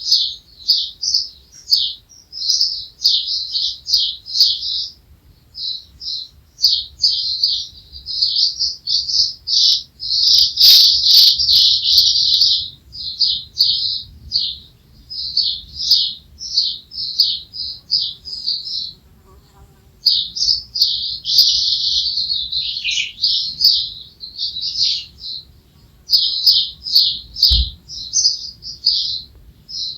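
Small birds chirping rapidly and almost without pause, short high notes several a second, rising to dense chattering runs twice along the way.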